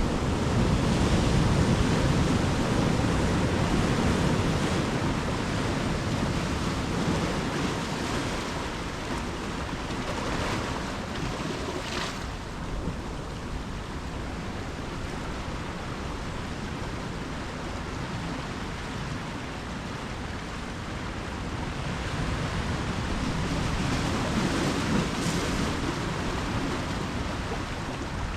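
Ocean surf washing onto the shore, swelling as waves break about a second in and again near the end, and easing off in between. A brief sharp sound cuts through about twelve seconds in.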